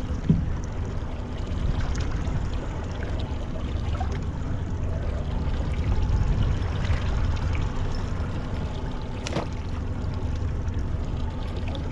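Steady rush of water with a low rumble, as water moves along a small fishing boat. A sharp knock comes just after the start and a single click near the end.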